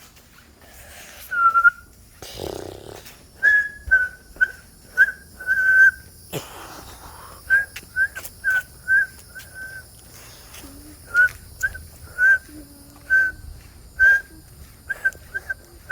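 A long series of short, high whistled chirps, about two a second in irregular runs, some dipping slightly in pitch. Two brief rustling noises come early on.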